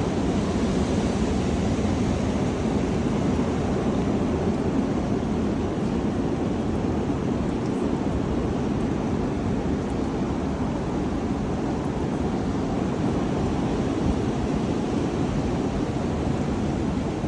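Strong wind blowing, a loud, steady rushing noise without let-up.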